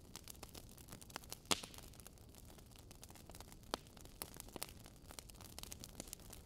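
Wood fire crackling in a fireplace: a steady run of small snaps and pops over a soft hiss, with a louder pop about a second and a half in and another just before four seconds.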